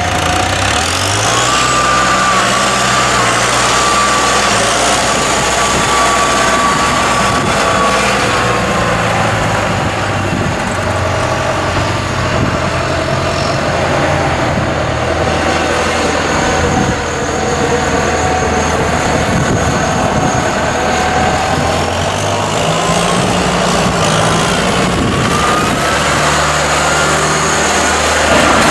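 John Deere 6120's four-cylinder diesel engine running, its speed stepping up and down several times, with a whine that rises and falls along with it.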